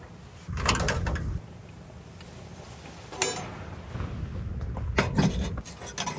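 Gear being handled: rustling and knocks, with one sharp latch-like click about three seconds in, and more knocks near the end.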